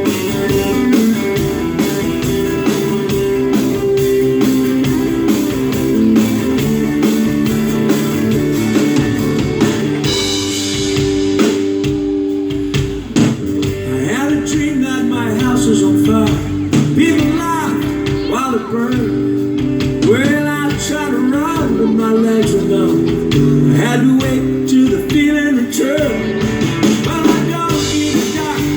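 Live band music led by guitar, with a voice singing from about halfway through.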